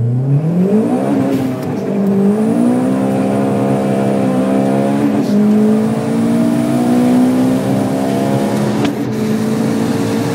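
Greddy-turbocharged Honda Civic Si four-cylinder accelerating, heard from inside the cabin. Engine pitch climbs quickly, dips at an upshift about a second and a half in and again about five seconds in, then rises steadily.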